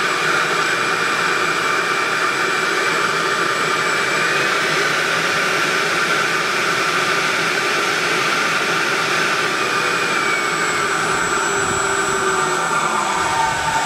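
Small 4500KV brushless RC jet motor spinning its fan at high speed: a steady loud rush of air with a high whine, the pitch edging up about four seconds in and back down near ten seconds.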